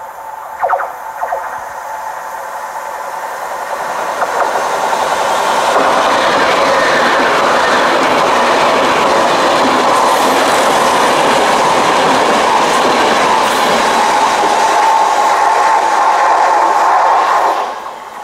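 Class 390 Pendolino electric train passing at speed. The rail noise and clickety-clack of its wheels build up over a few seconds, hold loud and steady as the coaches go by, then drop away sharply near the end as the rear passes.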